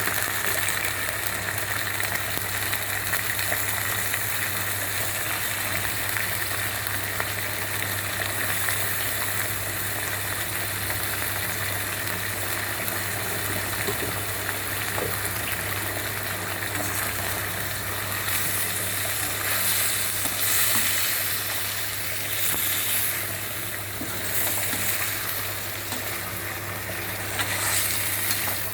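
Mutton keema meatballs sizzling as they fry in coconut oil with onions, a steady hiss that swells now and then in the last third. A steady low hum runs underneath.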